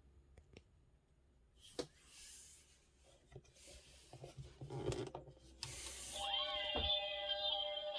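Handling noise from a plastic model, with scattered clicks and rubbing. About six seconds in, a short hiss is followed by steady electronic tones, with pitches sweeping up and down over them.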